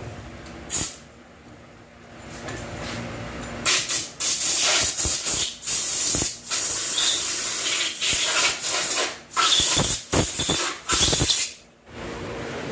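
A pressurised jet hissing in short blasts: one brief blast near the start, then a rapid string of loud hissing blasts with short gaps between them, stopping about a second before the end.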